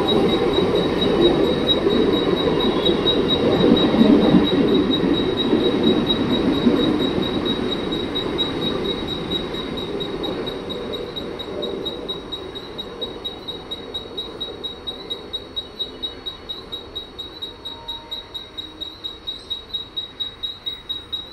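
Mumbai EMU local train pulling out of the station, its wheel and running noise fading away over about twelve seconds as it leaves. A high-pitched pulsing beep repeats a few times a second throughout, left on its own once the train has gone.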